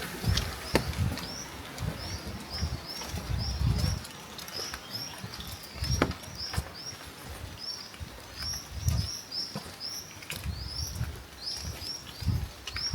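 A small bird chirping over and over, short high chirps at about two a second, with low irregular thuds and a few sharp ticks underneath.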